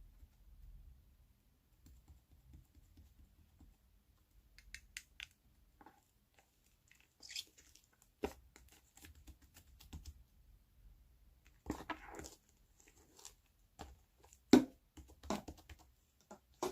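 White clay slime being pressed and squished by hand, giving scattered soft clicks, crackles and sticky pops, with a sharper pop about eleven seconds in.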